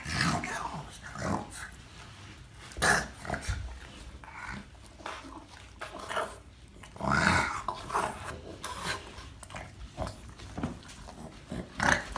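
A dog making short sounds several times, the loudest about seven seconds in.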